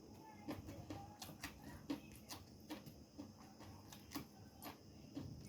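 Faint close-up eating sounds: irregular sharp clicks and small crunches of chewing, about two a second.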